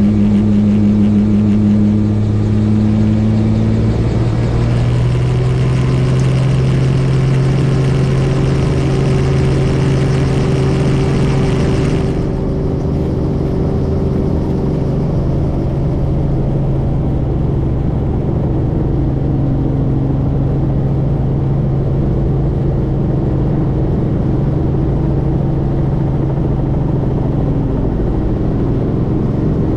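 Helicopter in flight: the engine and rotor run as a steady loud drone with a few held low tones. The lowest tone steps up slightly about four seconds in, and the high hiss drops away abruptly about twelve seconds in.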